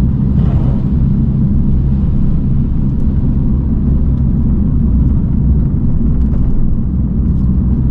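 Mini car driving at low speed, heard from inside the cabin: a steady low drone of engine and road noise.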